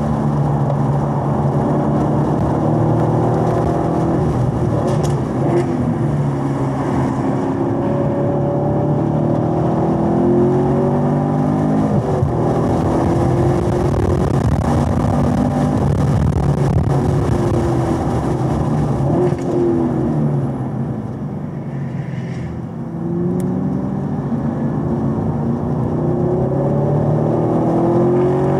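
Chevrolet Corvette V8 engine heard in-car at track pace, pulling at around 4,000–5,500 rpm, with its pitch rising and falling through acceleration and corners. About two-thirds of the way through the engine note drops and goes quieter as the driver lifts off to brake, then it picks up again.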